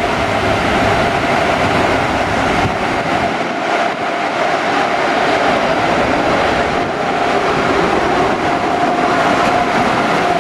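A train moving close by through the station: a steady loud rolling noise with a continuous whine held at one pitch.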